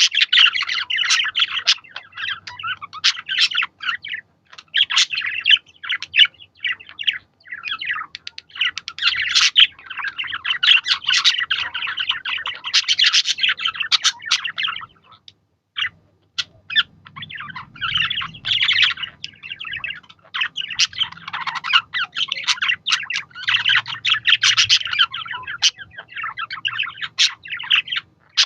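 Budgies chattering and warbling in a dense stream of rapid chirps, with a short pause about halfway through.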